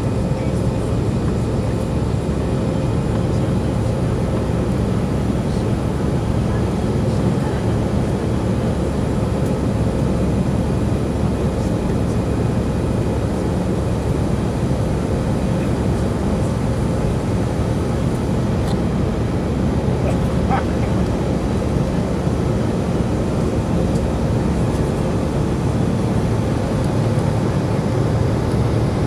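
Airbus A320 jet engines running at takeoff power: a loud, steady rush of noise with a low, even hum underneath.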